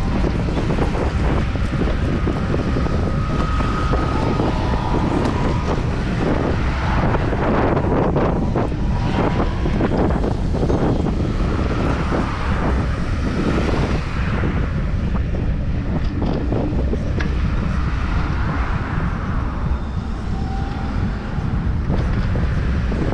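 Wind buffeting the microphone of a camera riding along on a moving bicycle: a steady low rumble with no breaks.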